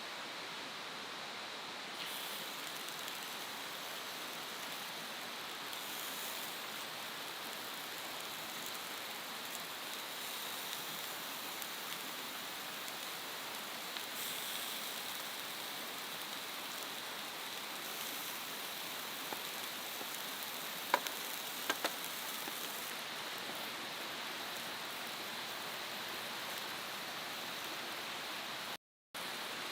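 Steady, even hiss like rain or running water, with a few faint ticks about two-thirds of the way through.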